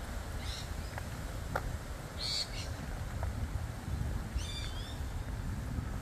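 Birds calling in three short, high-pitched bursts, the loudest about two seconds in, over a steady low rumble.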